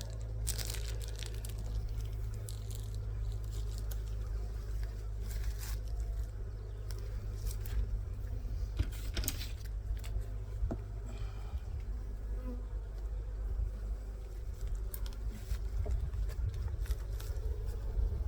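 Honeybees buzzing steadily around an open hive, with a few scattered sharp clicks.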